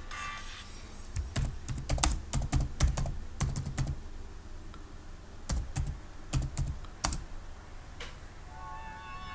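Computer keyboard being typed on in two short runs of irregular key clicks, each with a dull thud, with a pause of about a second and a half between them.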